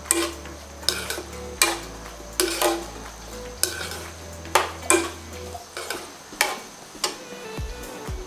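Onions and green chillies sizzling in hot oil in a karahi as they begin to soften, with a spatula repeatedly scraping and knocking against the pan as they are stirred.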